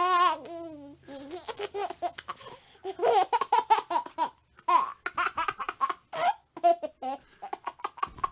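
Baby laughing: a high-pitched squealing laugh trails off in the first second, then comes a run of short, rapid bursts of giggling with brief pauses.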